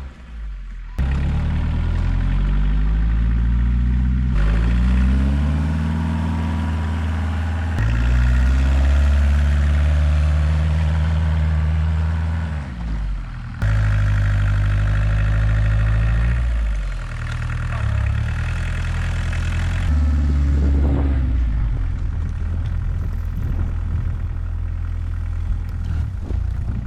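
Homemade 4x4 diesel UTV engine running under load while plowing snow, its pitch rising and falling again and again as it revs up and eases off. The sound changes abruptly several times.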